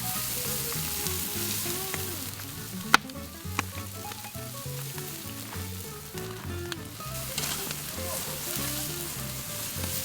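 Marinated pork sizzling as it grills over a wood fire, with a sharp click about three seconds in. Soft background music plays underneath.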